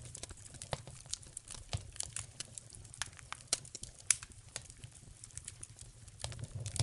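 Wood fire crackling in a fireplace: irregular sharp snaps and pops, some louder than others.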